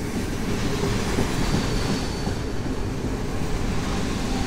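Intercity passenger coaches rolling past along the platform as the train pulls into the station: a steady rumble and clatter of wheels on the rails. A faint high-pitched squeal joins in about a second and a half in.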